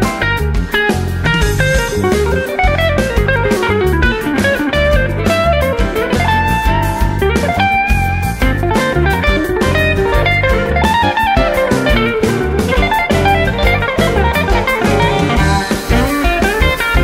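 Instrumental music: electric guitar lines played over low bass notes and a steady beat.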